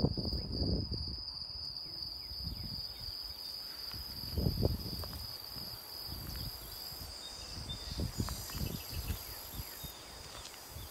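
Outdoor ambience: wind rumbling on the microphone in gusts, with a steady high whine behind it.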